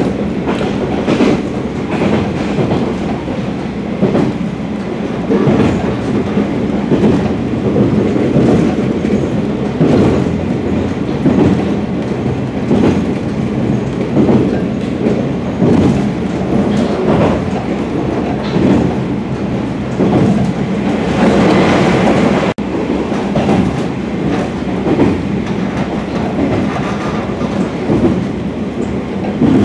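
Local diesel train heard from inside the carriage, running steadily: a continuous rolling rumble with the clickety-clack of wheels over rail joints every second or two.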